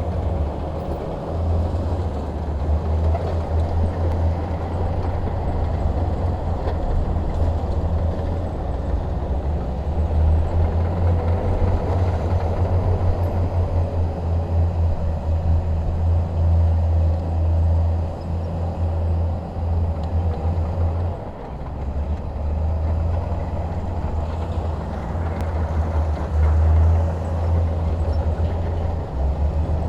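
Bulldozer's diesel engine running under load, a heavy low rumble that swells and eases, with a brief drop about two-thirds of the way in.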